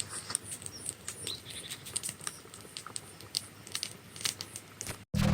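Irregular light crackling and clicking, many small sharp snaps at uneven intervals, then an abrupt cut about five seconds in.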